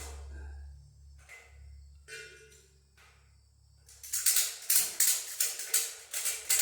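Ratchet strap being cranked tight to pull a disc gang up into place, a few scattered clicks, then about four seconds in a fast run of loud, sharp ratchet clicks, several a second.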